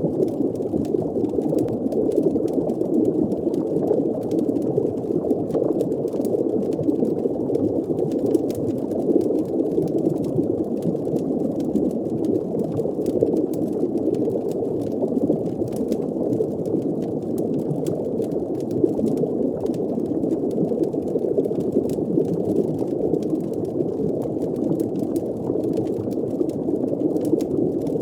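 Steady, muffled underwater ambience of bubbling water, with faint scattered crackles like a fire's embers throughout.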